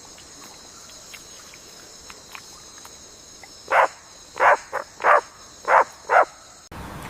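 An animal calling five times in quick succession, short loud calls a little over half a second apart, over a faint steady high-pitched background.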